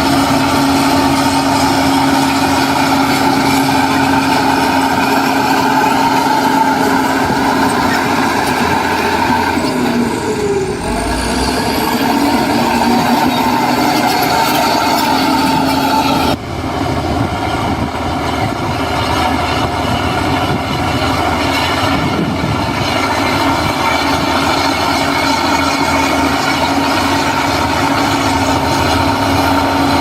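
Diesel engine of heavy earthmoving machinery running steadily and loudly. Its pitch dips and shifts about ten seconds in, and the sound changes abruptly a little past halfway.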